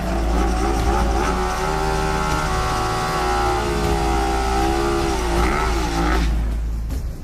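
Racing motorcycle engine held at high revs under hard acceleration, its pitch slowly climbing. Near the end it dips briefly and rises again, then stops suddenly about six seconds in, with a heavy low rumble underneath throughout.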